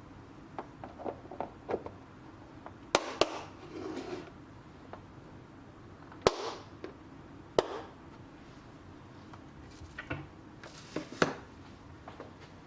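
Objects being handled, making a string of small clicks and several sharp knocks. The loudest knocks fall about three seconds in (two close together), at about six and seven and a half seconds, and near the end.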